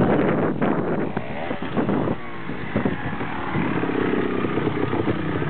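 Trials motorcycle engine revving in short bursts, with sharp knocks in between. It settles into steadier running about three and a half seconds in.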